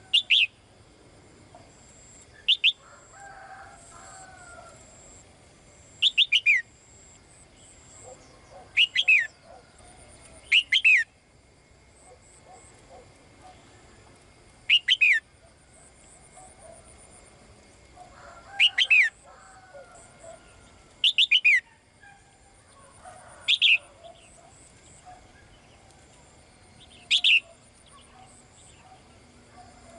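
A caged female songbird calling to a male. Each call is a short, loud run of two or three quick notes falling in pitch, repeated every few seconds. Fainter, lower bird sounds lie between the calls.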